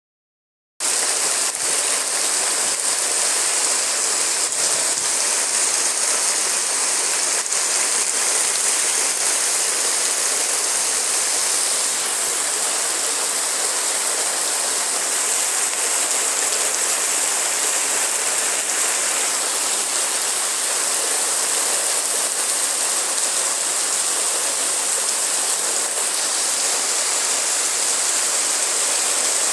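Heavy rain pouring down in a steady, even hiss of falling water, starting about a second in.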